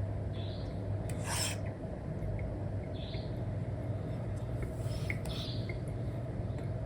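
Apple Pencil nib scratching across a matte paper-like screen film in several short strokes, one longer stroke about a second in, over a steady low hum.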